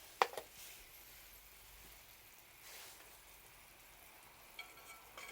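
Two sharp clicks of metal cookware or utensils, then a short metallic clink that rings briefly near the end, over a faint steady hiss.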